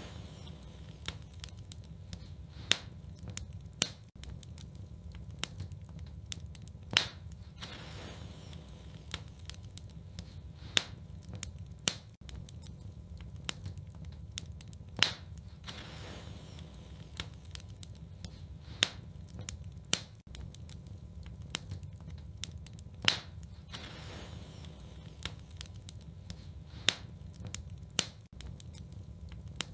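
Wood fire burning in a fireplace, crackling: a steady low rumble under sharp pops and snaps, the loudest coming about every four seconds, with a brief hiss now and then.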